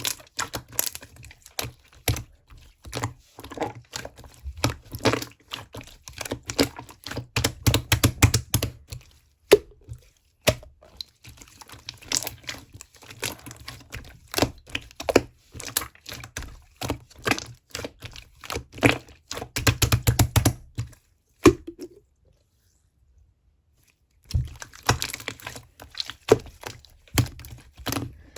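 A mandarin orange being handled and peeled up close: dense, irregular crackling, clicking and soft thuds of peel tearing and fingers on the fruit. The sounds break off for about two seconds near the end.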